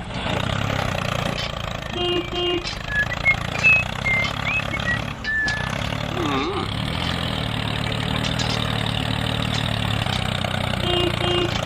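A small engine running steadily. Two short beeps come about two seconds in and again near the end, and a few short high chirps sound a little after the first beeps.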